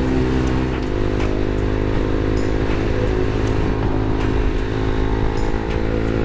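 Honda CBR sport bike engine running steadily under way, its note holding fairly even with a slight change about a second in, over wind noise on the microphone.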